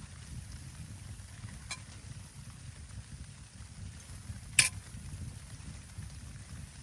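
Steady low rumble with two sharp cracks: a faint one near the start and a much louder one about halfway through.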